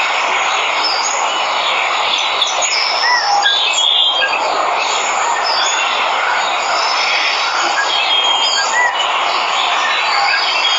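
Steady rush of a waterfall, with birds chirping and calling over it in short, scattered notes.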